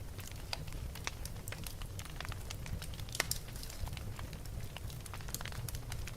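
Wood fire burning in a fireplace: irregular crackles and pops over a steady low rumble, with one louder pop about three seconds in.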